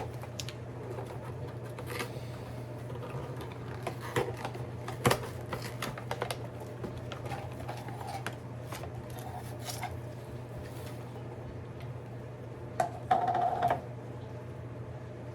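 A gift package being opened by hand: scattered clicks, crinkles and tearing of packaging over a steady low hum, with a brief higher-pitched squeak about 13 seconds in.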